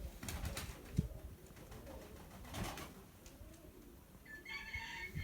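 Domestic pigeons cooing softly, with a few short noises and a higher-pitched bird call near the end.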